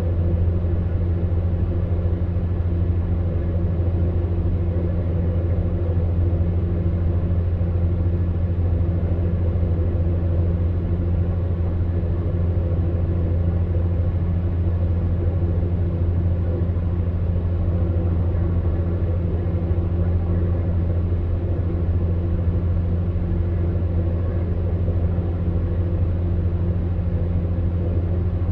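Electric fan heater running steadily: a constant low hum under an even rush of air, with no change in pitch or level.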